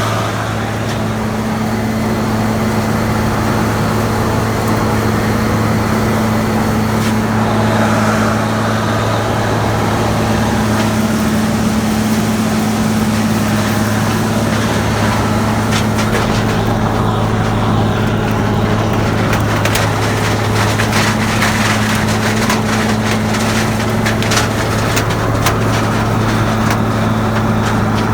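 Gleaner combine running under load while harvesting corn: a steady, loud engine drone with a general mechanical rush, and scattered crackling and rattling that grows busier about halfway through.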